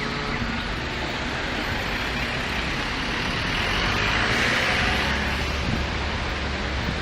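Road traffic noise, with a vehicle passing that swells loudest about four to five seconds in.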